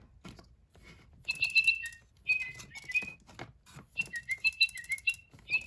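Little Live Pets Lil' Birds electronic toy birds chirping in three bursts of short, high, whistled tweets that step and glide in pitch, with light clicks from handling.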